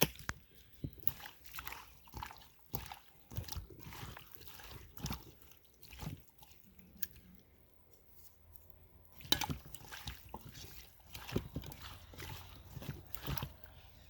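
Wet squelching and slapping of hands rubbing seasoning into food. The strokes come in irregular short bursts and ease off for a couple of seconds in the middle.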